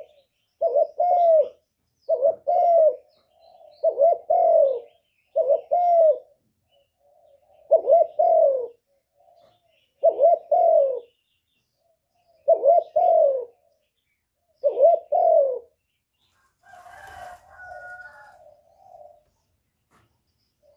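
Spotted dove cooing: the same short coo phrase about every two seconds, eight times. It stops after about fifteen seconds, followed by a brief noise and some softer cooing.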